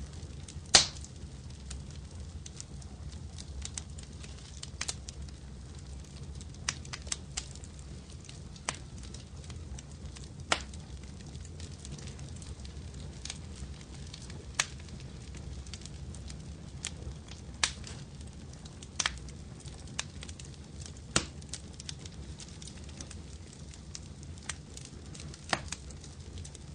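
Wood fire crackling: irregular sharp pops and snaps over a steady low rumble of burning, one louder pop about a second in.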